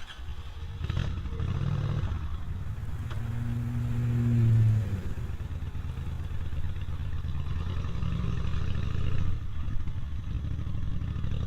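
Steady low rumble of riding along a street, with a motor vehicle's engine swelling and rising in pitch about four to five seconds in.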